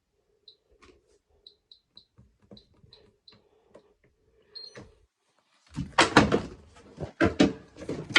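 Faint, short, high chirps over a low hum. A little under six seconds in, a run of loud clattering knocks and rattles begins, as the washing machine's lid or door is opened and handled.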